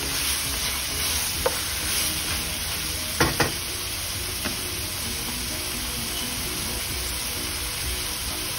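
Diced chicken breast sizzling steadily in hot oil in a wok. A wooden spoon stirs it at first, with one sharp knock against the pan about a second and a half in and two quick louder knocks a little past three seconds.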